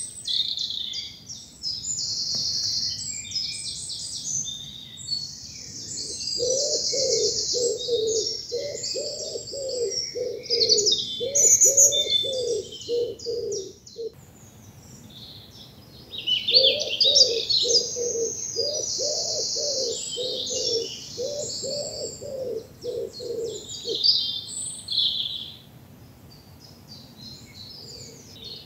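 Woodland dawn chorus: several songbirds singing and chirping high and busily throughout. A low cooing call repeats at an even pace of about one and a half notes a second, in two runs of around ten notes each, the second ending a few seconds before the close.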